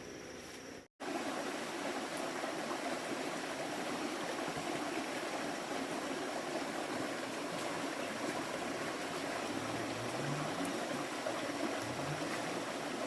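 Running water of a stream, a steady rushing that starts abruptly about a second in after a brief moment of silence.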